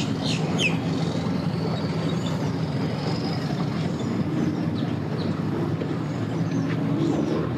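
An engine running steadily at low revs, a low even drone throughout, with a few bird chirps in the first second.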